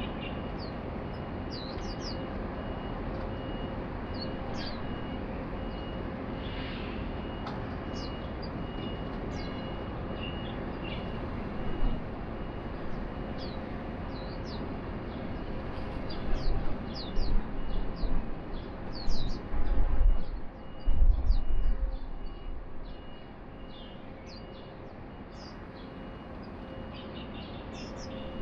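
Short, high, downward-sliding chirps from white-eyes, scattered singly and in quick pairs, over a steady city background hum. Past the middle come several seconds of loud low rumbling bursts.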